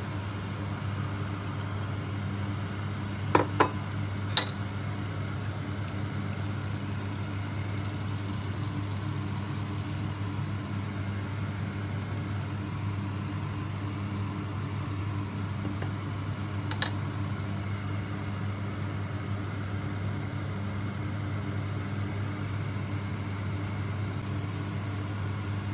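Small fish frying in a pan of tomato masala: a steady sizzle over a low hum. A wooden spatula knocks against the pan three times a few seconds in, and once more later.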